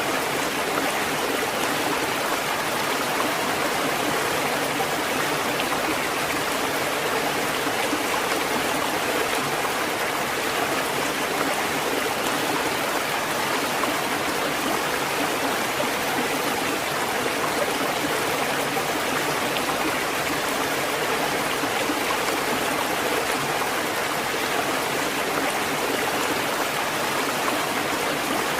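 Steady rushing water, an even hiss and gurgle that holds one level throughout, without the rise and fall of separate breaking waves.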